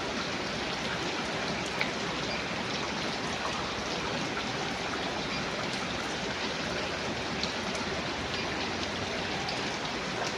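Steady rain, a constant hiss scattered with the small ticks of individual drops landing, one a little sharper about two seconds in.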